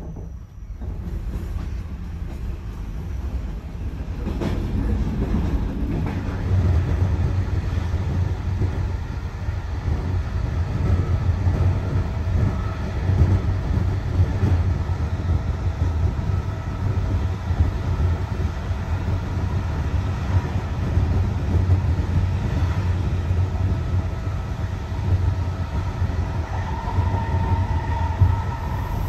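Running noise of a loco-hauled ZSSK passenger coach heard from inside a compartment: a steady low rumble of wheels on the rails. It grows louder over the first several seconds and then holds steady.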